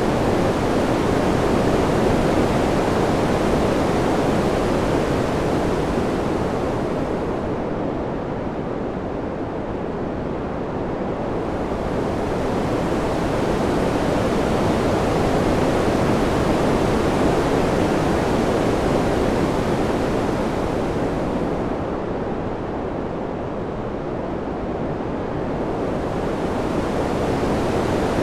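Continuous rushing wind sound, a dense even noise with no gusts or tones. Twice it slowly softens and turns duller as the hiss fades, then swells back.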